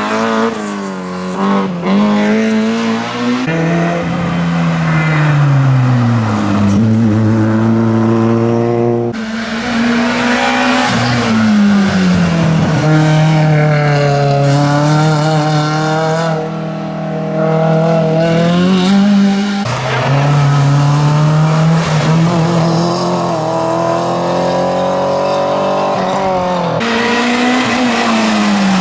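Rally car engines driven hard, the revs repeatedly climbing and dropping through gear changes and lifts, in several takes that switch abruptly from one car to the next.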